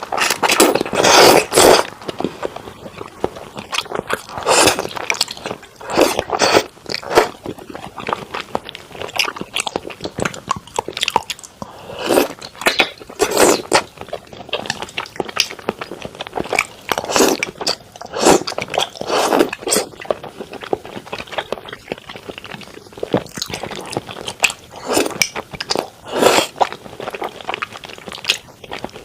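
Close-miked eating of thick-cut raw salmon: repeated bites and chewing in irregular bursts, some louder clusters among softer mouth sounds.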